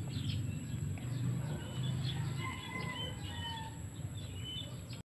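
Small birds chirping, with scattered short high chirps and a few brief whistled notes over a steady low rumble.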